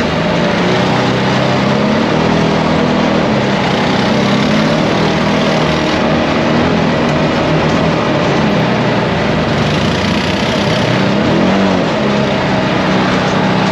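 ATV engine running under way on a trail, its pitch rising and falling as the throttle changes.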